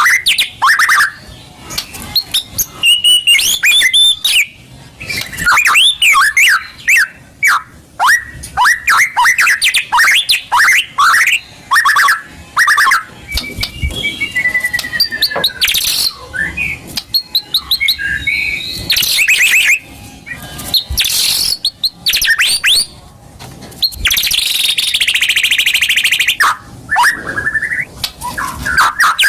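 White-rumped shama (murai batu) singing a loud, varied song: quick falling whistles, fast runs of repeated notes, and bursts of harsh chatter.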